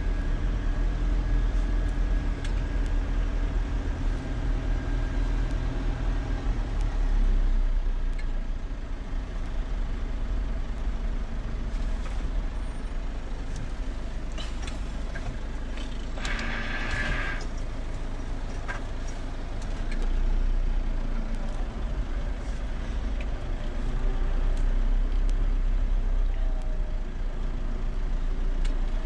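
A vehicle engine running steadily, its pitch dropping a few seconds in, with a brief higher-pitched hiss or squeal about sixteen seconds in.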